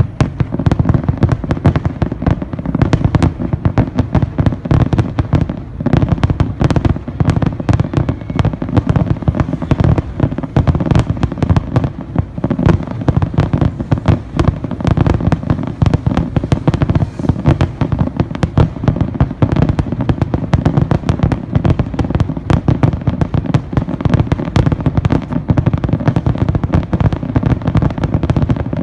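Large fireworks display at full intensity: a dense, unbroken barrage of shells bursting, many loud bangs a second overlapping into continuous booming and crackling.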